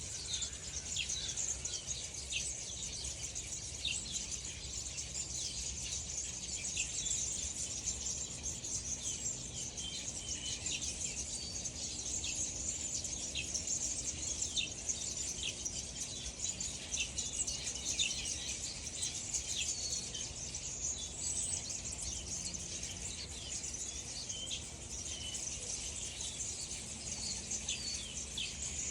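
Wild birds chirping in a morning chorus: many short, high chirps from several birds, scattered without a fixed rhythm, over a steady high-pitched hiss.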